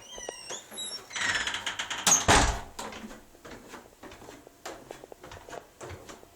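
A door squeaking a few times with a falling pitch, a fast rattle about a second in, and a loud thump just after two seconds as it shuts, then footsteps on the way down to the basement.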